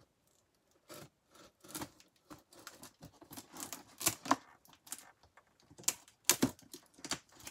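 Packing tape being cut and torn off a cardboard shipping box, with cardboard scraping and rustling in irregular short strokes; the loudest come about 4 and 6 seconds in.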